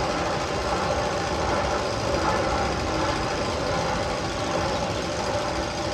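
Steady mechanical, engine-like running with a knocking texture: one of the recorded sound effects played over loudspeakers in the Magnum XL 200 roller coaster's tunnels.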